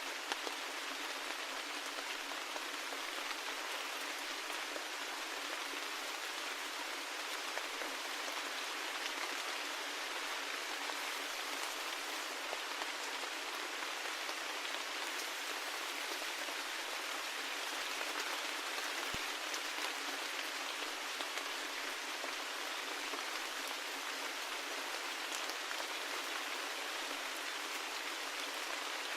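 Steady rain falling, an even hiss of many drops with no change in strength, and one brief sharp tick about two-thirds of the way through.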